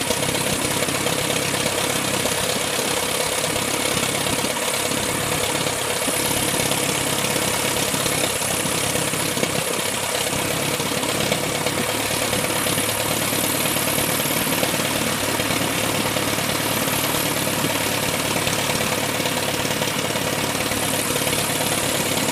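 Van's RV-7 light aircraft's piston engine running steadily on its first engine run, with no change in speed.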